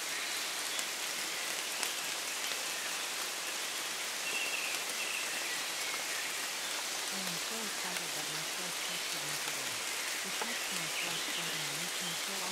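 Steady rain falling, with a faint low voice speaking underneath from about seven seconds in, the quiet spoken affirmations of a subliminal track.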